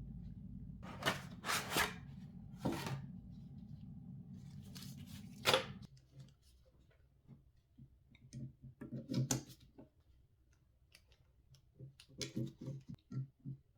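Hands handling PC parts and packaging: scattered clicks, snips and rustles, over a low steady hum that cuts off about six seconds in.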